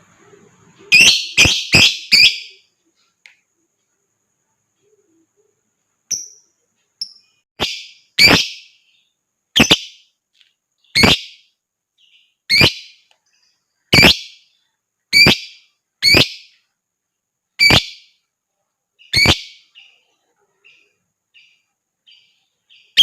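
Lovebird giving loud, shrill, sharp calls. A quick run of four comes about a second in, then, after a pause, single calls follow about every second and a half, with faint chirps near the end.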